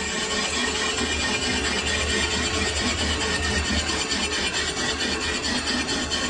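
Lathe running steadily with a continuous scraping of the cutting tool against the turning metal workpiece, over a constant low machine hum.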